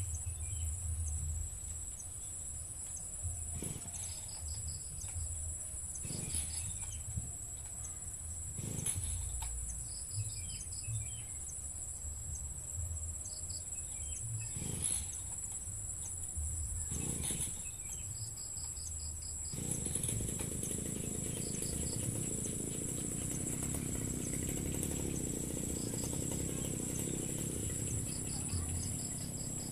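Insects chirping: a steady high trill with short pulsed chirps repeating every few seconds, over a low rumble. About two-thirds of the way through, a steady low noise joins in.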